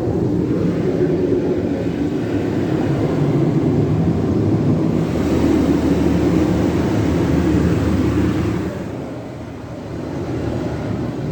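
Jim Coleman Water Wizard 1.0 automatic car wash running, a loud steady rushing noise of its machinery and spray, with a brighter hiss from about five seconds in that eases off near the end.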